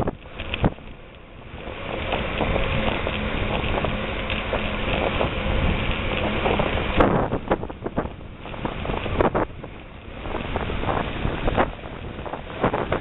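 Wind buffeting the microphone and the tyre noise of a bicycle descending a dirt forest road, with frequent knocks and rattles from bumps. A smoother, steady rush runs through the middle, broken by a sharp click about seven seconds in, after which the knocks come thicker.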